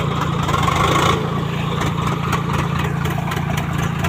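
Swaraj 744 XT tractor's diesel engine running steadily.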